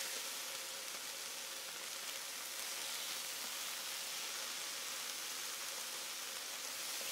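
Thick-sliced bologna frying on a hot electric griddle: a steady sizzle.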